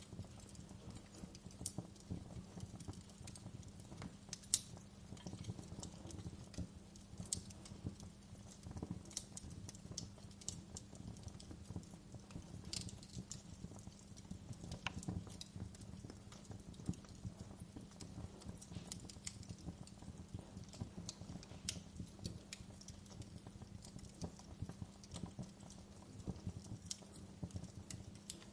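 Wood fire burning in a fireplace: a steady low rumble of flames with irregular crackles and pops from the burning logs, one louder pop about four and a half seconds in.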